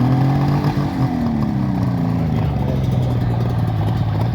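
Two-stroke motorcycle engine revved once, its pitch rising and then falling back over about two seconds, then settling to a steady idle.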